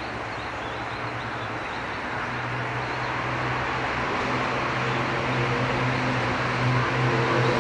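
A steady engine hum growing slowly louder, as of an approaching motor vehicle, with its tones strengthening about two seconds in.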